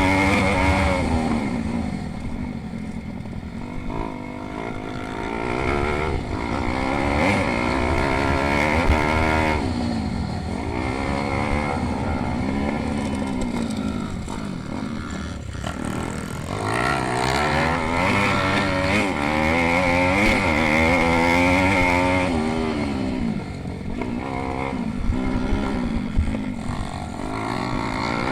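Pit bike engines racing, their pitch rising and falling over and over as the riders open and shut the throttle, with more than one bike heard at once.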